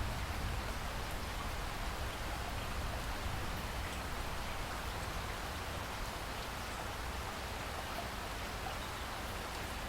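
Steady rain falling in a rainforest, an even hiss with a few separate drops now and then.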